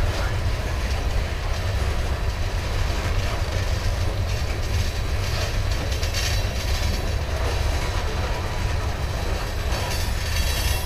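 Loaded covered hopper cars of a grain train rolling past, a steady rumble and clatter of steel wheels on the rail, with brief brighter high-pitched wheel noise about six seconds in and again near the end.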